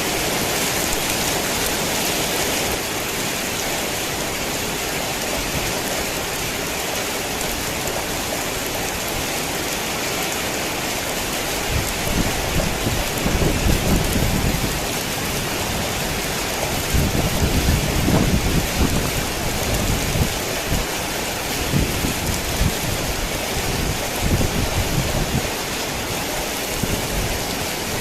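Heavy rain falling steadily. Low rumbles of thunder swell up several times from a little before halfway through.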